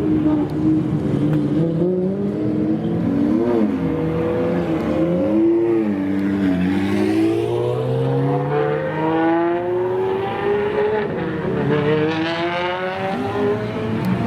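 Several supercar engines revving and accelerating together. The revs go up and down in the first half, then climb in two long rising sweeps, the second starting near the end.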